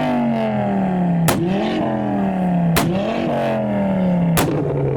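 Ford Focus ST engine revved hard over and over. Its pitch sags slowly between revs, and three sharp bangs about a second and a half apart mark each fresh blip.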